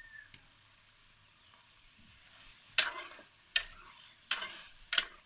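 Chicken frying in a karahi, a faint steady sizzle, then from about halfway through four sharp scraping strokes about 0.7 s apart as the chicken is stirred in the pan.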